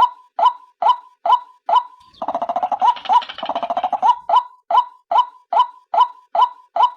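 Female white-breasted waterhen (ruak-ruak) calling: a steady run of short repeated calls, about two a second, broken about two seconds in by a quick chattering rattle lasting under two seconds, after which the repeated calls resume.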